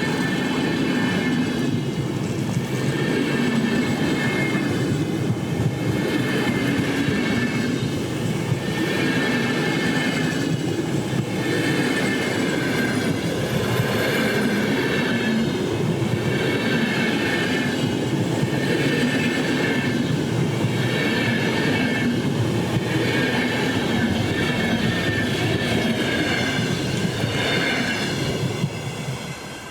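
Train passing close by, its wheels rumbling on the rails with a high squeal that rises and falls about every second and a half. The sound cuts off just before the end.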